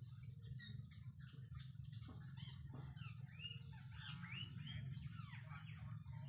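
Small birds chirping: many short, quick rising and falling calls, busier in the second half, over a steady low hum.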